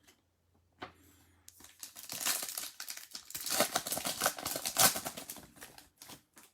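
Plastic wrapping on Topps Chrome trading-card packaging being torn open and crinkled, a dense crackling that builds up after a second or so and dies away near the end.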